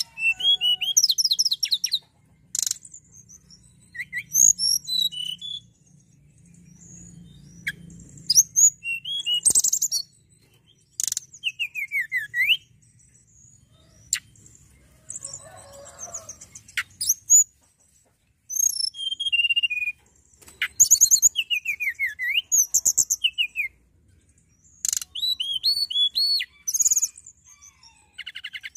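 Hill blue flycatcher (tledekan gunung) singing: bursts of quick, high sweeping whistles and trills, several phrases broken by short pauses.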